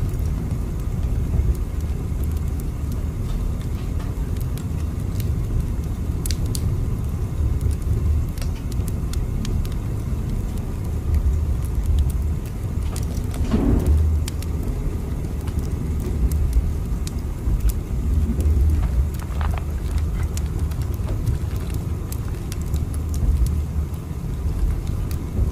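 Steady low rumble of a moving train, with faint scattered clicks and a brief creak about halfway through.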